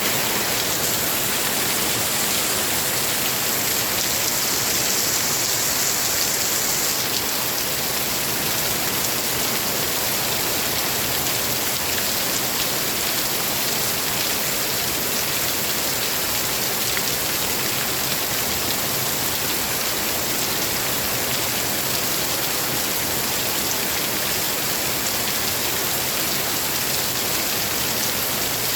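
Steady heavy rain falling, a dense even hiss with many small drop impacts ticking through it. The hiss is a little brighter for the first seven seconds or so.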